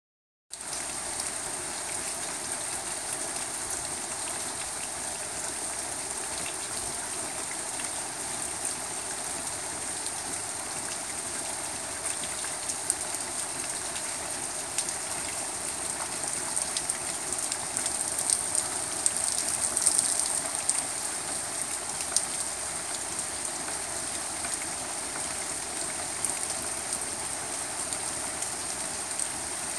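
Steady heavy rain falling on a lawn and wet concrete patio, with many close drops ticking. The rain grows a little louder for a few seconds around the middle.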